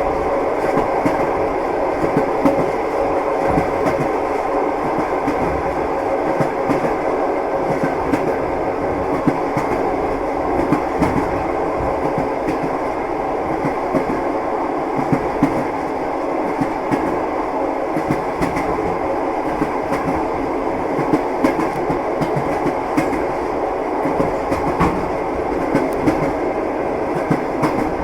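Train wheels clattering on the rails: a steady rumble of a moving train with scattered short knocks from the wheels running over the track.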